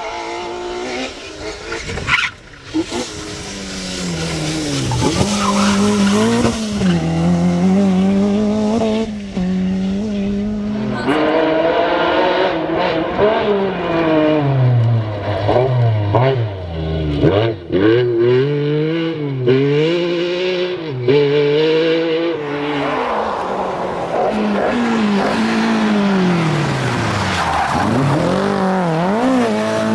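Rally car engine revving hard, its pitch climbing and dropping again and again as the driver lifts off and changes gear, with tyre noise underneath.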